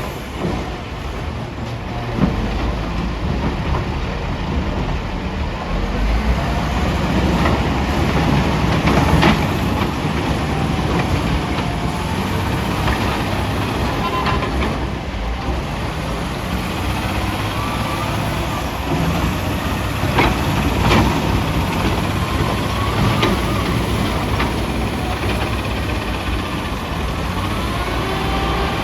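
Heavy diesel machinery, a wheel loader working at a dump truck, running steadily with a few sharp knocks scattered through.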